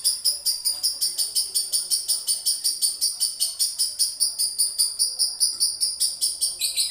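Male lovebird ngekek: a long, unbroken, high-pitched chattering trill of about seven rapid strokes a second, held on and on as a duration call. It stops abruptly at the very end.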